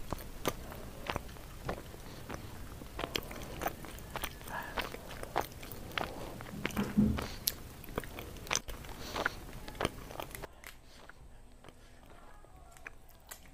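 Close-miked chewing of sweet potato leaves and stems: a dense run of short, wet mouth smacks and crunches that thins out and gets quieter about ten seconds in.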